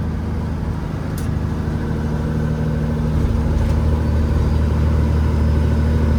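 Peterbilt 379 semi truck's diesel engine running steadily, heard from inside the cab, growing a little louder about three seconds in. A single short click sounds about a second in.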